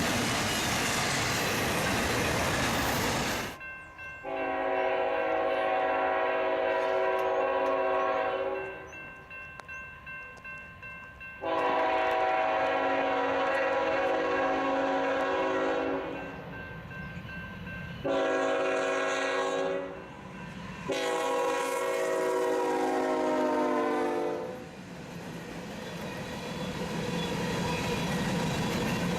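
A diesel freight locomotive's multi-chime air horn sounding the grade-crossing signal: long, long, short, long. Before it a loud rushing noise cuts off suddenly, and after it the rumble of the approaching train grows louder.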